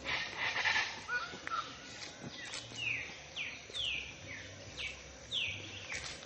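A songbird singing a run of short whistled notes, each sliding down in pitch, about two a second, over a steady background hiss.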